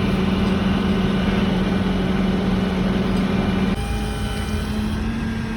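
Large vehicle's engine running steadily with a low hum. About three and a half seconds in, the hum abruptly steps slightly higher in pitch and turns quieter.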